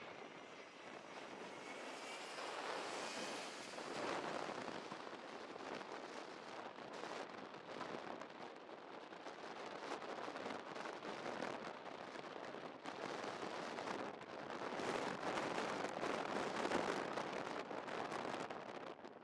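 Gusty storm wind buffeting the microphone over the broad roar of an Airbus A330's jet engines on landing. A high engine whine falls in pitch at the start.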